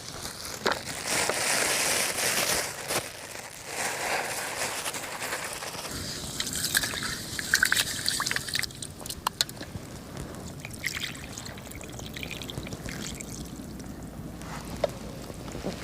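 Water trickling and pouring, loud and uneven for about the first six seconds, then a quieter steady trickle with scattered small clicks and knocks.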